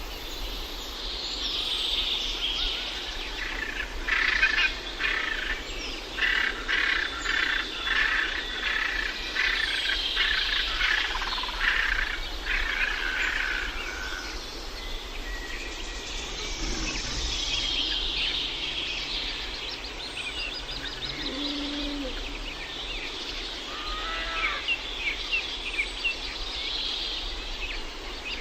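Several birds singing and calling over one another, with a run of quick repeated notes in the first half, over a steady background hiss.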